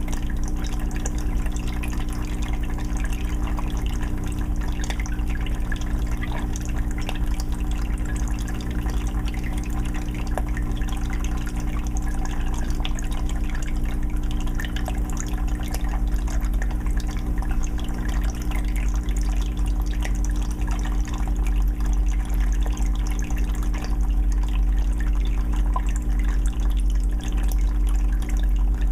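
Aquarium filter running in a 20-gallon fish tank: water trickling and dripping steadily with many small splashes, over a steady low hum.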